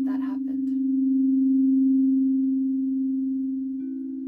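Singing bowl sounding a sustained, almost pure low tone that slowly swells and fades. Near the end a second, slightly higher bowl tone is struck and joins it.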